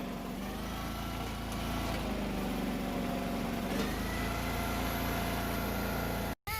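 Small gasoline engine of a towable backhoe running steadily while digging. It cuts off abruptly just before the end.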